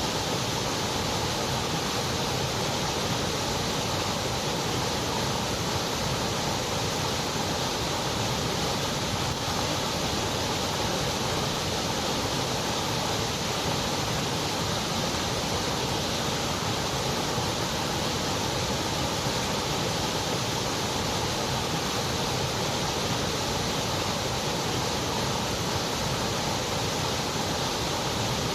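Continuous white noise: an even, steady hiss that never changes.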